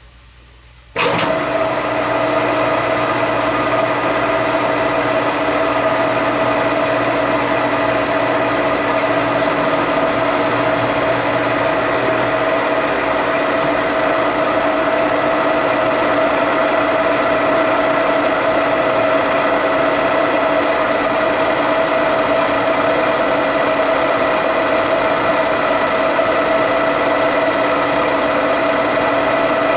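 Machine tool switched on about a second in and running steadily under power, taking a 25-thousandths cutting pass on the coupler, with a steady mechanical whine of several fixed tones.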